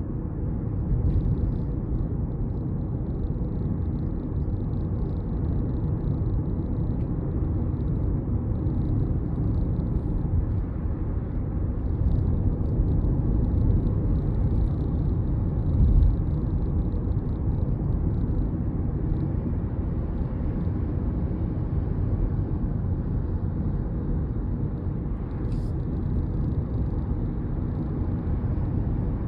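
Inside the cabin of a Hyundai Ioniq 5 electric car driving at speed: a steady low road and wind rumble, with a faint intermittent flapping rattle from the driver-side door that shows up only when driving above about 40 mph in warm weather.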